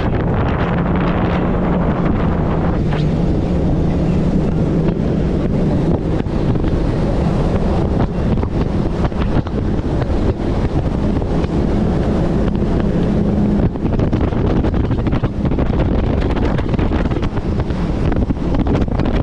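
90 hp Evinrude outboard motor on an inflatable Thundercat boat running steadily under way, with heavy wind buffeting the microphone.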